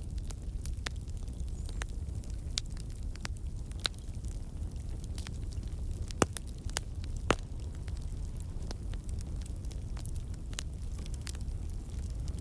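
Campfire of burning logs crackling: scattered sharp pops of the wood over a steady low rumble, with two louder pops about six and seven seconds in.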